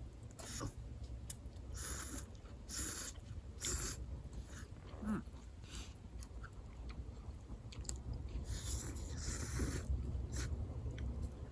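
A person eating yakisoba close to the microphone: chewing, with short hissing sounds at irregular intervals, a cluster of them near the end. A steady low rumble runs underneath.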